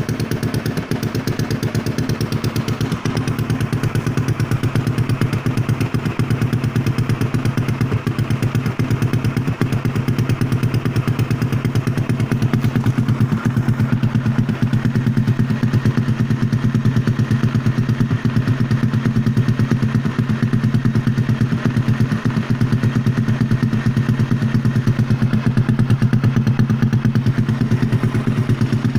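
Honda Vario scooter's single-cylinder four-stroke engine idling steadily through an aftermarket SC-Project exhaust, an even low exhaust note with no revving.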